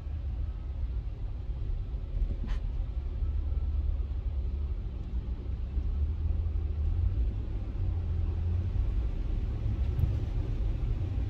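Steady low rumble of a road vehicle driving, with a brief click about two and a half seconds in.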